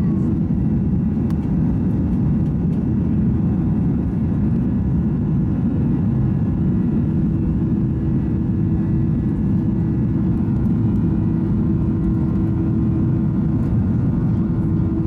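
Steady cabin noise of a Boeing 737-800 heard from inside the cabin: a low rumble of its CFM56 turbofan engines and airflow with a steady hum, unchanging in level.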